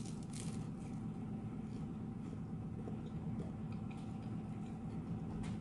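A person chewing a bite of fried spring roll: faint crunches and small mouth clicks over a steady low hum.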